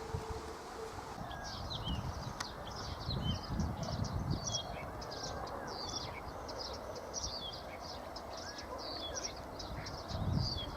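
Small songbirds chirping and twittering in quick, repeated phrases, starting about a second in, over low wind rumble on the microphone.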